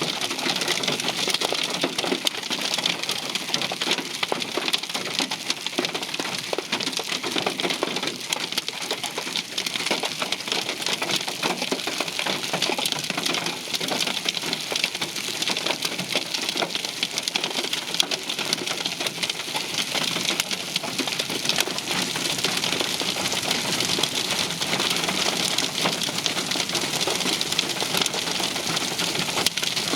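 Hail and heavy rain pelting a vehicle: a dense, steady clatter of countless small impacts.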